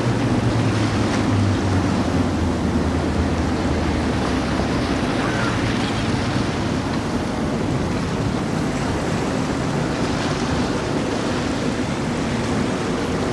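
Waves and water wash with wind buffeting the microphone, and a low boat-engine rumble that fades out about five seconds in.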